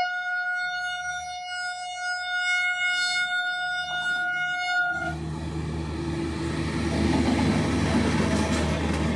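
Indian Railways electric locomotive's horn blown in one long, steady blast that cuts off about five seconds in. Then the rumble of the locomotive and its coaches rolling past close by, growing a little louder near the end.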